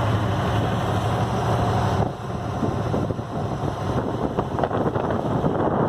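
A boat's engine running with a steady low hum. About two seconds in the hum falls back and wind buffeting the microphone takes over.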